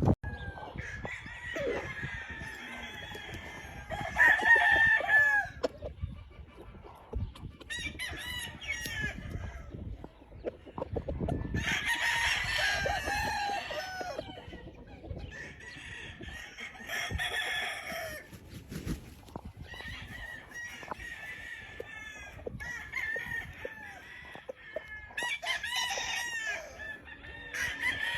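Several gamefowl roosters crowing in turn, about eight crows of one to three seconds each, some overlapping one another.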